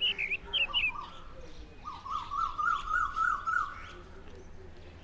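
Birds chirping, with short chirps at first. About two seconds in, one bird gives a quick run of repeated rising notes lasting roughly two seconds.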